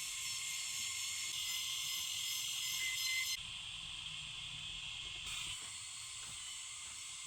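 Steady high-pitched hiss of forest background sound, changing abruptly about three seconds in and again about five seconds in.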